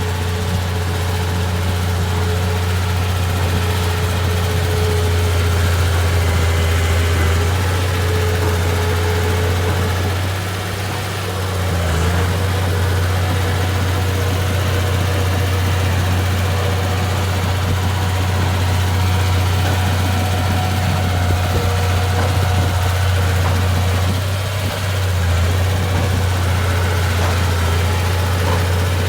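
Komatsu D31P bulldozer's diesel engine running steadily with a deep hum, its note dipping briefly twice.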